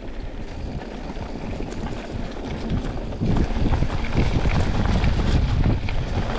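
Mountain bike rolling over a leaf-covered dirt trail: wind buffeting the microphone over the rumble of the tyres and the rattle of the bike over bumps. Louder from about three seconds in.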